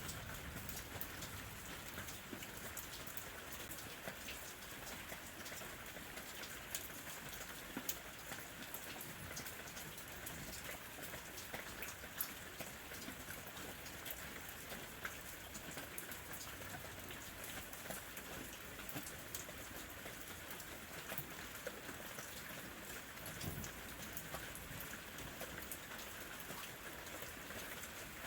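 Steady summer rain falling on a surface, a continuous hiss with many small drop ticks and a few louder individual drops.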